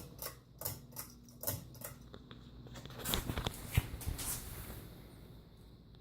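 An Emerson Designer ceiling fan running at medium speed, its motor giving a steady low hum. Irregular clicks and taps sound over it, bunched in the first four seconds or so.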